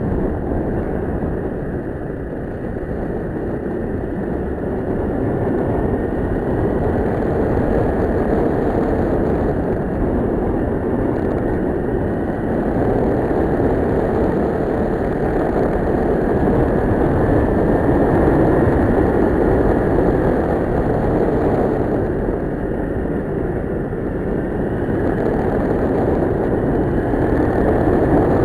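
Kawasaki Ninja 650R's parallel-twin engine running on the move, buried in a steady rush of wind noise.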